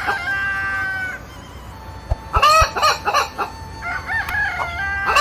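A rooster crowing with a long held note, followed from about two seconds in by a run of short chicken clucks.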